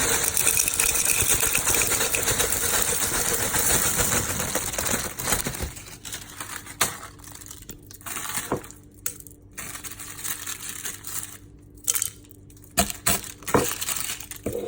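Dry, fried egg shells tipped into a Magic Bullet blender cup, rattling and crunching for about five seconds, followed by scattered clicks and knocks as the cup is handled.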